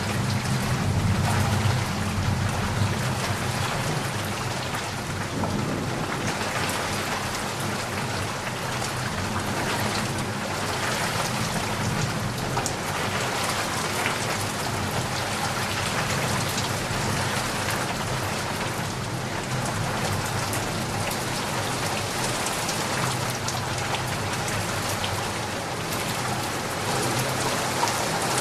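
Steady rain falling, a dense hiss of drops, with a low rumble of thunder in the first few seconds and again near the end.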